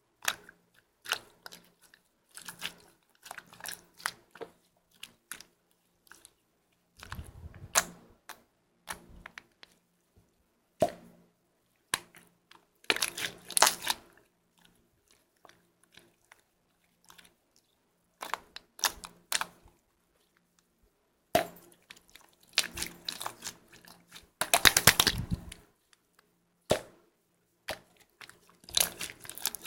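Slime being squished and pressed by hand: irregular sticky clicks and pops, with a few longer crackling squishes.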